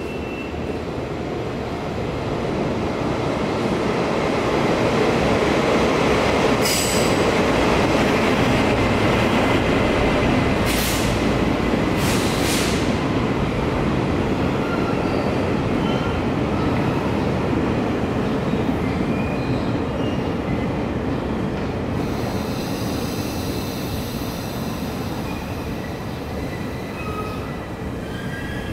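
Passenger train running in along a station platform: a steady rumble of wheels on rail that builds over the first few seconds and then slowly eases. A few sharp clicks come through in the middle, and short high-pitched wheel squeals come through toward the end.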